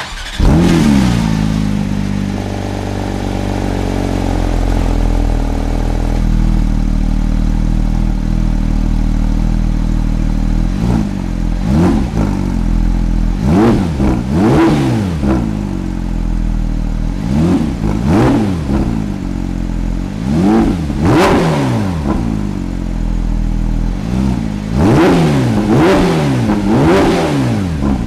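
2021 Porsche 911 GT3's 4.0-litre naturally aspirated flat-six starting up with a flare of revs, then settling to a fast idle and a steady idle. From about ten seconds in it is blipped repeatedly, in twos and threes, with the revs rising sharply and falling straight back.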